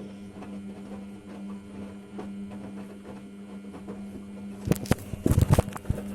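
Samsung washing machine running a cotton 60 °C wash: a steady motor hum with faint ticks, then a cluster of loud knocks and thuds in the last second and a half.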